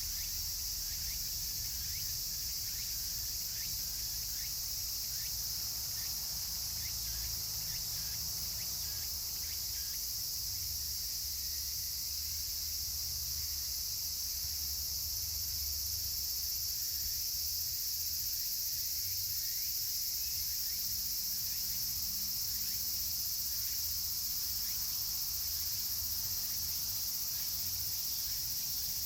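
A chorus of cicadas makes a steady, dense, high-pitched drone, with the faint irregular crackle of a wood fire beneath it, most noticeable in the first half.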